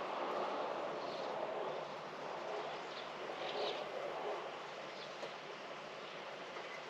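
Distant train running past and slowly fading, with a few faint bird chirps.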